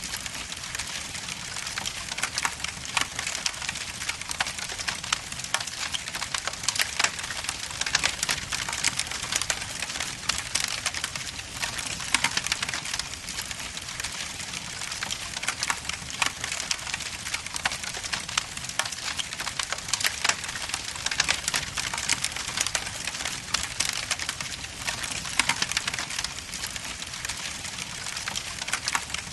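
Wood logs burning in a fireplace, crackling and popping steadily with many sharp snaps.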